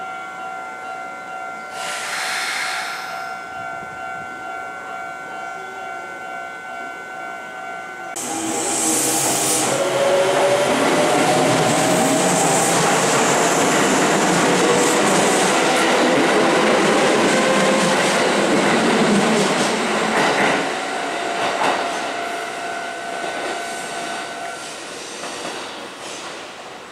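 A Kintetsu commuter electric train runs along the platform close by, its wheels and motors loud for about twelve seconds and then fading. A steady electronic warning tone sounds before the train arrives and again as it fades.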